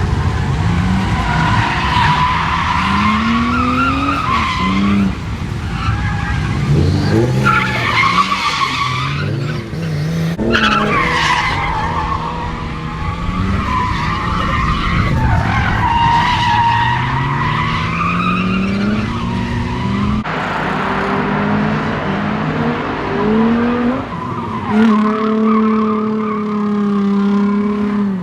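R32 Nissan Skyline drift car sliding, its tyres squealing while the engine revs repeatedly rise and fall. In the last few seconds the engine holds a steadier note.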